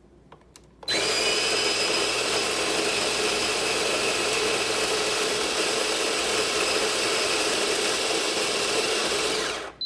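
Electric coffee grinder running a timed grind of beans on its drip/pour-over setting: the motor starts about a second in, runs steadily with a thin high whine over the grinding noise, and shuts off just before the end as its 10-second timer runs out.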